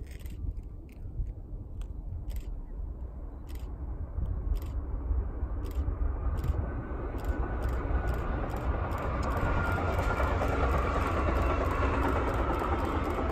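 A train approaching, its noise growing steadily louder through the second half, with scattered sharp clicks early on.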